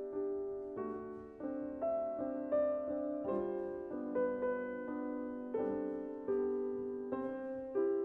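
Gentle solo piano music: a slow, soft piece of struck notes and chords, each ringing and fading before the next.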